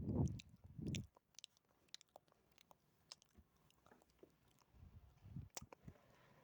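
Close-miked ASMR mouth sounds: scattered wet clicks and smacks of lips and tongue, with a few soft low thuds at the start, about a second in and about five seconds in, and one sharper click shortly after.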